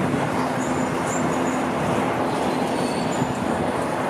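Empty flat wagons of a freight train rolling past: a steady rumble of wheels on rails, with a few brief, faint high squeaks over it.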